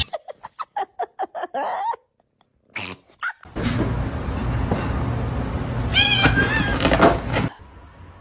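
Cats meowing in a string of short clips: a quick run of short meows, then after a brief silence a longer meow over a steady background hiss that cuts off suddenly.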